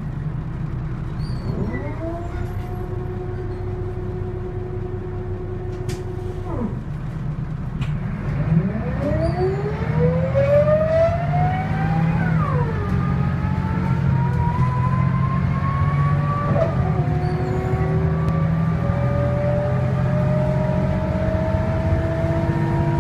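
ZF Ecomat 2 automatic gearbox of a Volvo B7L bus whining as the bus accelerates, heard right at the transmission housing over the rumble of the engine. The whine climbs in pitch, then drops sharply at each upshift, three times: about a quarter, a half and two-thirds of the way through.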